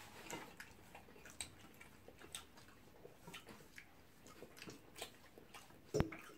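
Faint chewing and wet mouth clicks as fried plantain and fried egg are eaten, in irregular short ticks, with a single louder thump about six seconds in.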